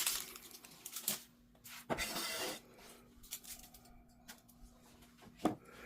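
Kitchen knife on a chopping board while an onion is sliced: a few scattered light knocks and one brief scrape about two seconds in.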